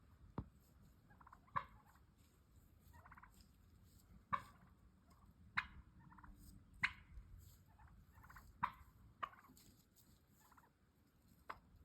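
Turkey clucks and purrs: about eight sharp single clucks, spaced irregularly a second or more apart, with soft rolling purrs in between.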